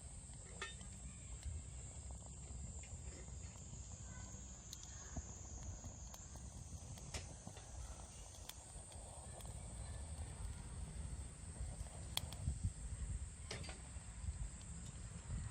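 Small twig fire burning in a compact wood camp stove, with a low steady rush and a few sharp, scattered crackles and pops. A steady high insect trill runs underneath.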